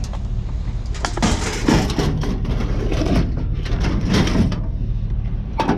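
Scrap metal being handled and loaded, with a series of scraping and clattering noises and a sharp knock near the end, over a steady low hum.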